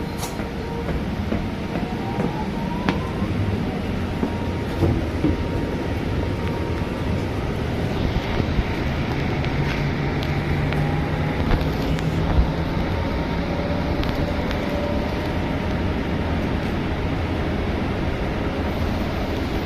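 Scania city bus heard from inside the cabin while under way: a steady engine and drivetrain rumble with road noise and rattles. A faint whine rises in pitch a couple of times, and a few short clicks sound.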